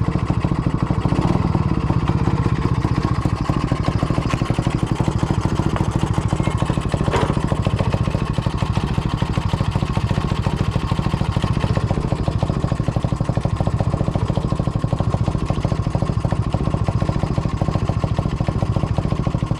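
IZh 49 motorcycle's single-cylinder two-stroke engine idling steadily, freshly rebuilt with a rebored cylinder and a 75 mm piston and still being run in.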